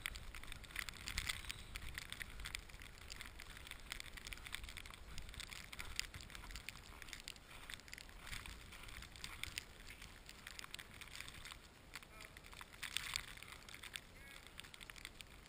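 Footsteps trudging through deep snow, a steady run of irregular crunching, slightly louder about a second in and again around thirteen seconds in.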